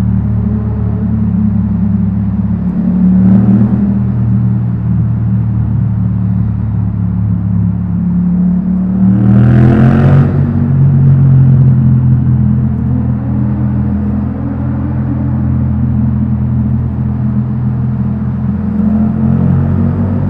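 Yamaha MT-07's parallel-twin engine through an Akrapovic titanium exhaust, running under way, with a short rise in revs about three seconds in and a stronger rising rev about nine to ten seconds in.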